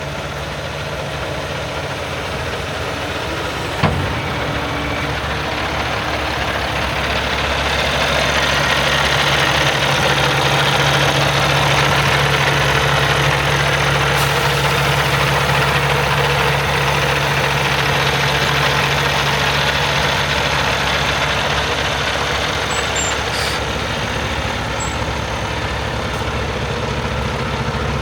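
Cummins X15 inline-six diesel of a Peterbilt 567 dump truck idling. It grows louder about a third of the way in, then eases back slowly. There is one sharp click about four seconds in.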